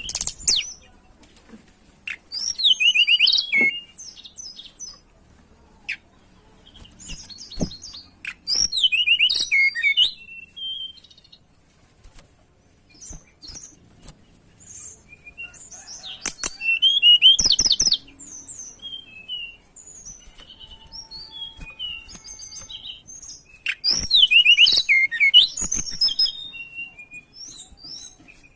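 Tledekan gunung bird singing: loud bursts of fast, high chirps and trills every several seconds, with quieter single notes in between.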